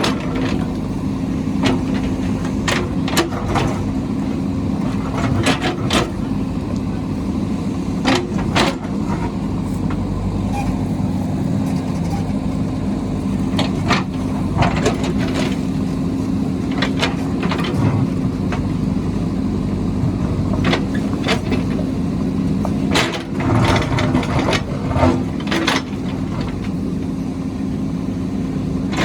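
Heavy construction machine's engine running steadily, with repeated sharp knocks and clanks throughout.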